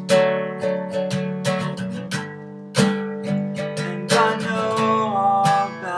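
Acoustic guitar strumming chords in a steady pattern, with no singing: an instrumental passage of a song.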